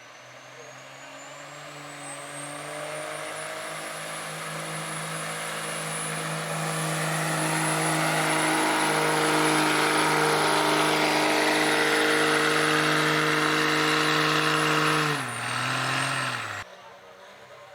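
Diesel pickup truck with a 2.6-inch turbocharger pulling a weight sled: the engine runs hard at high revs while the turbo whistle rises over the first few seconds and then holds, the whole sound growing louder. About fifteen seconds in the revs drop, and then the sound cuts off suddenly.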